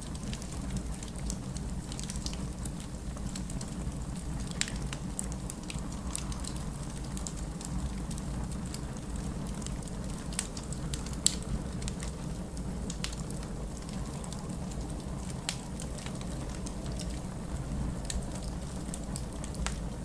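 Wood fire in a fireplace crackling, with irregular sharp pops over a steady low rumble; one pop about eleven seconds in is the loudest.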